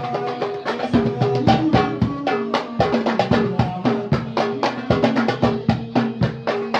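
Several darbukas (goblet drums) played together in a fast banjari rhythm, with dense, rapid strikes and ringing low tones.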